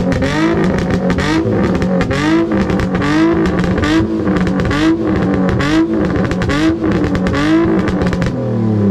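Car engine held on a two-step launch-control rev limiter, its revs bouncing up and down about twice a second with rapid exhaust pops and crackles. Near the end the crackling stops.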